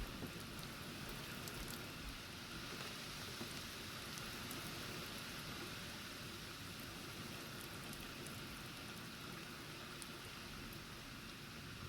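Heavy thunderstorm rain falling steadily: an even hiss with scattered sharp ticks of drops.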